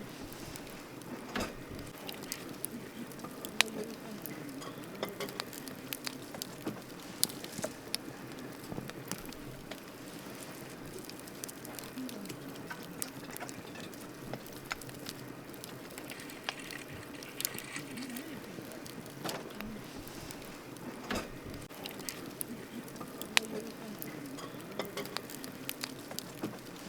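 Wood campfire burning: a steady low hiss with irregular sharp crackles and pops, a few louder snaps scattered through.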